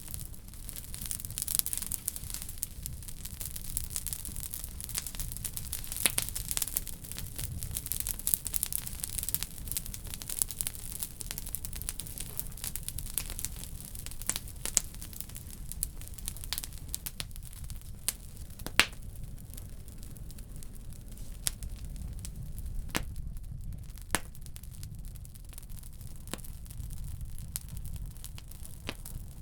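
Wood fire burning in a wood stove: a steady low rumble and hiss of flames with irregular crackles and sharp pops of burning logs.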